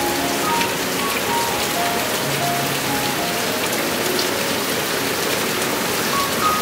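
Steady heavy monsoon rain falling, an even hiss of drops, with a slow, soft melody of single held notes playing over it.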